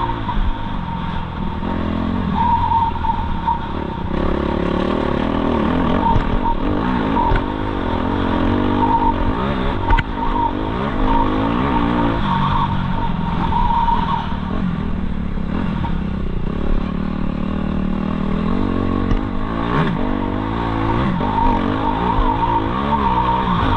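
Suzuki RM-Z250 four-stroke single-cylinder motocross bike engine revving up and down over and over as it is ridden, with the throttle opening and closing through the track.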